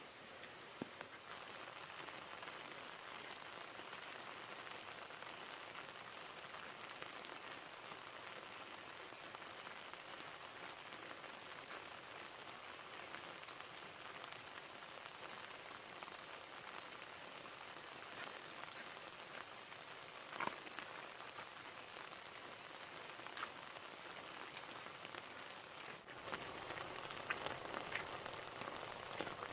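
Steady hiss of rain falling, with scattered small ticks of drops; it gets louder near the end.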